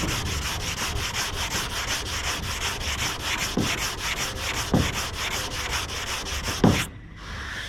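Hand block sanding of primer and guide coat on a car body panel with 180-grit sandpaper, the block-sanding stage that shows up low spots. Rapid, even back-and-forth strokes with a few light knocks, stopping about a second before the end.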